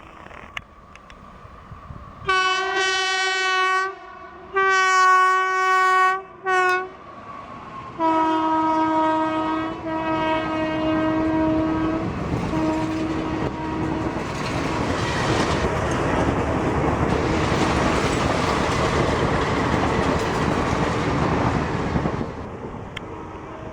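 Indian Railways express locomotive sounding its horn: two long blasts and a short one, then a longer, lower-pitched blast in several pieces as the train draws level and passes. This is followed by the loud steady rush and rail clatter of the high-speed train's coaches going by for about eight seconds, which falls away near the end.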